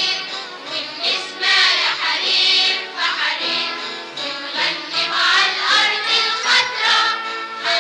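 A children's song: a group of voices singing together in Arabic over backing music.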